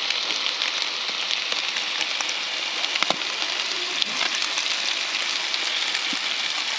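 Trout frying in butter, a steady sizzle with a few sharp pops.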